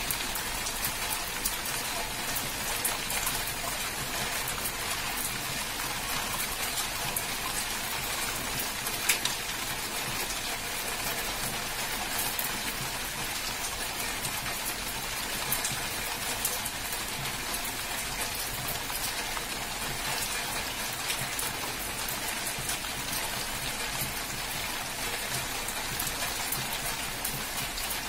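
Heavy rain pouring steadily on leafy trees: a dense, even hiss dotted with sharp ticks of drops striking nearby, one tap louder about nine seconds in.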